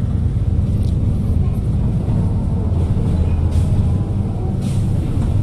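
City bus engine running with a steady low drone, heard from inside the passenger cabin.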